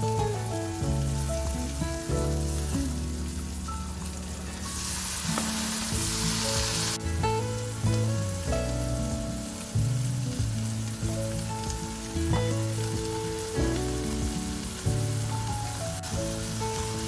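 Food sizzling in a frying pan over background music with stepping bass and melody notes; the sizzle swells into a loud hiss for about two seconds near the middle.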